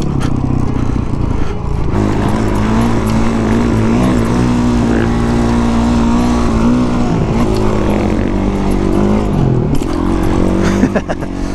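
Honda CRF450 dirt bike's single-cylinder four-stroke engine riding along a trail. Its note holds steady for several seconds, then rises and falls with the throttle, dipping briefly near the end.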